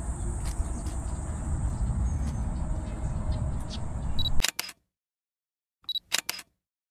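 Steady outdoor ambience with a low rumble and a high steady hiss. About four seconds in, a small camera gives a short focus-confirmation beep followed by sharp shutter clicks, and the sound cuts out. Just before six seconds a second beep and shutter clicks come, then it cuts out again.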